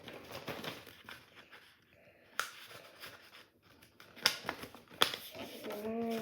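A sheet of paper being folded and creased by hand: soft crinkling with a few sharp crackles as the folds are pressed down.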